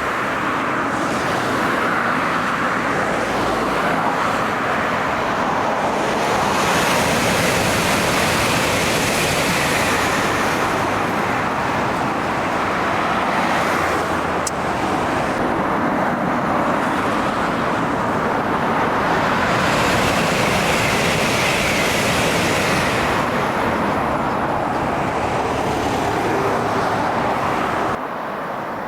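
Steady road traffic noise from a busy highway, swelling twice as vehicles pass close by, then dropping suddenly near the end.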